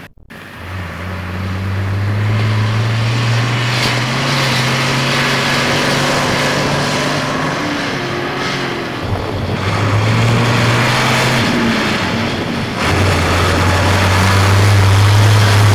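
A Mercedes-Benz Unimog's diesel engine running while the truck drives, with a steady low hum under road and wind noise. The note drops away briefly twice and then comes back.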